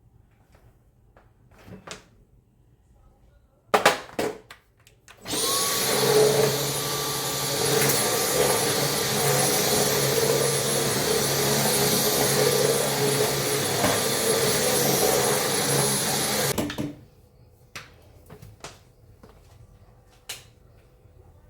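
An electric appliance motor switches on after a couple of clicks, spins up to a steady high whine over a low hum, runs for about eleven seconds and then cuts off.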